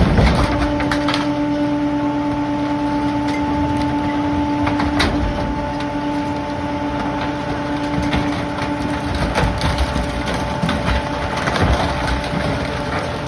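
PakMor rear-loader garbage truck working its packer: the engine holds a steady raised hum while wood and household debris crack and snap as they are compacted.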